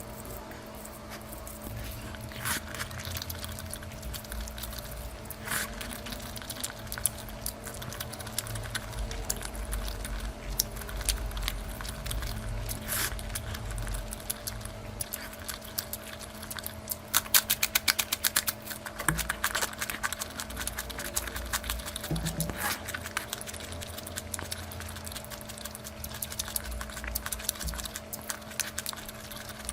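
Close-miked eating sounds: chewing and wet mouth clicks while eating curry, with a quick run of sharper clicks about seventeen seconds in, over a steady faint hum.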